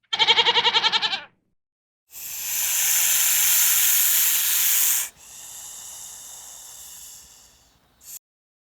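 A short quavering bleat, then a loud hiss lasting about three seconds that drops to a quieter hiss for a few more seconds.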